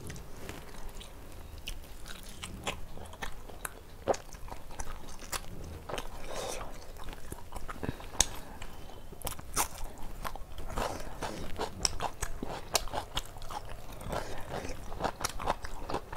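Close-miked chewing and crunching of food, with many irregular crisp clicks and wet mouth sounds.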